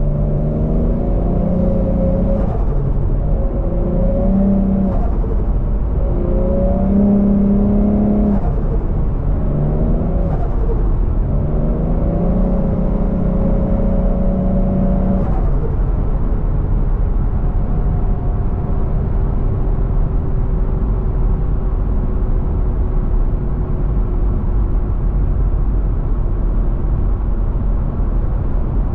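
Turbocharged 1JZ-GTE VVT-i straight-six in a swapped Scion FR-S accelerating through several short pulls, the engine note rising in each and breaking off between them with a brief burst of turbo flutter. After about fifteen seconds it settles into a steady cruise, the pitch slowly falling.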